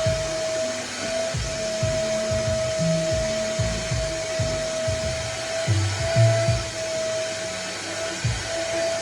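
Nunix wet and dry vacuum cleaner running steadily: a constant motor whine over a rush of air. Music with a shifting bass line plays along with it.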